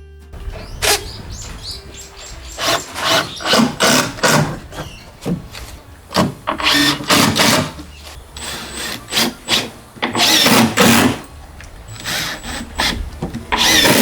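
Hand work on wood with tools: a run of short, irregular scraping and knocking strokes.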